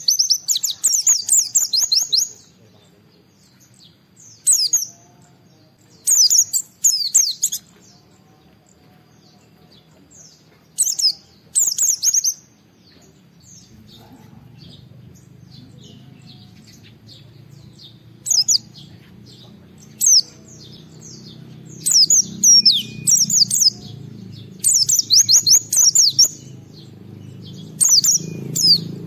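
Pleci (white-eye) singing in quick, high twittering phrases of one to two seconds, with short pauses between them and the phrases coming closer together near the end. A low hum rises under the song in the second half.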